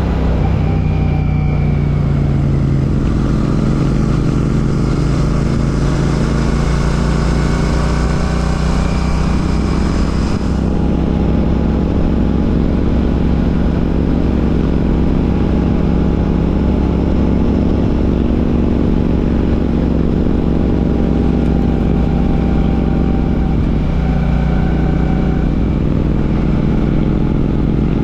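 Royal Enfield Classic 650's parallel-twin engine running under way through an aftermarket Ngage exhaust, its note steady with a shift in pitch about three seconds in. A high rushing hiss over it fades out about ten seconds in.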